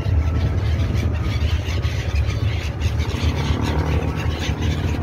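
Abra water taxi's diesel engine running steadily with a constant low drone, heard on board with water and wind noise over it.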